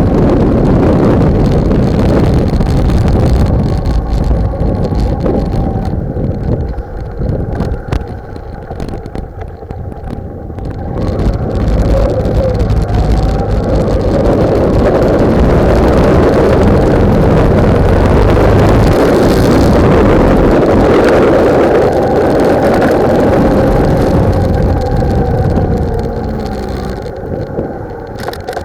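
Loud wind buffeting on the microphone of a camera mounted on a moving motorcycle, with the bike's engine running faintly underneath. The buffeting eases for a few seconds about a quarter of the way in and again near the end.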